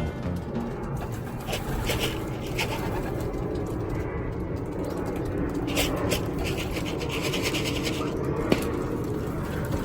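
Racing pigeons moving about, with scratching and rustling sounds that come and go and are busiest about six to eight seconds in, and one sharp tick near the end.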